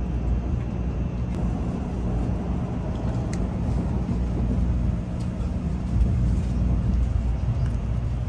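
Steady low rumble of a Shinkansen bullet train running, heard from inside the passenger car.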